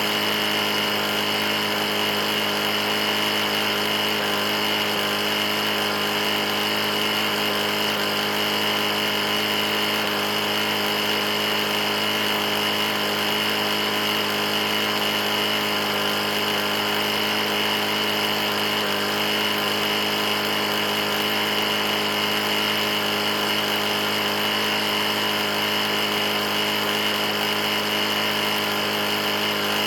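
Briggs & Stratton lawn mower engine running steadily at constant speed, an engine that is knocking pretty bad.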